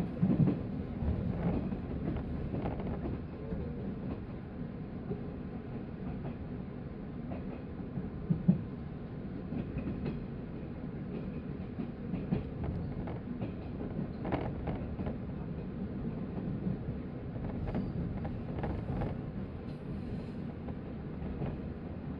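JR 185 series electric train running: a steady low rumble of wheels on rail, with scattered clicks and knocks from rail joints and points. The sharpest knock comes about a third of the way in.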